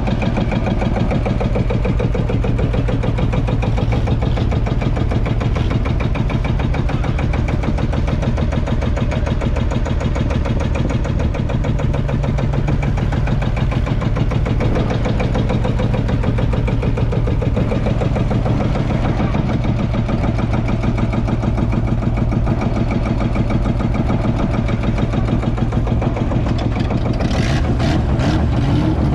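Field Marshall Series 3 tractor's 5.1-litre single-cylinder two-stroke diesel running with a steady, even beat. A few sharp clicks come near the end.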